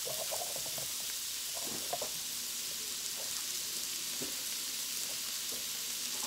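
Shrimp and onion sizzling in vegetable oil in a wok over medium-high heat: a steady frying hiss with a few faint crackles.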